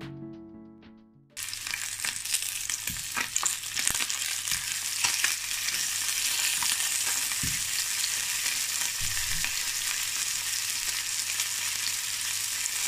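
Slices of chicken galantine sizzling in a stone-coated frying pan, the frying starting suddenly a little over a second in and running steadily, with scattered pops and clicks. Music fades out just before the sizzling starts.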